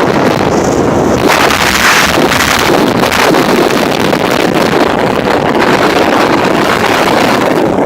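Loud, steady wind noise rushing over the microphone.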